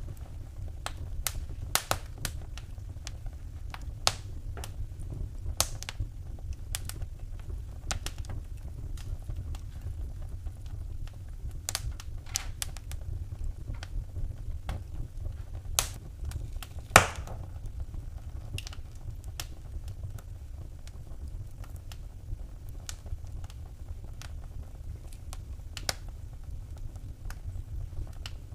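Wood fire burning in a fireplace, crackling with irregular sharp snaps and pops over a steady low rumble of the flames, one louder pop about 17 seconds in.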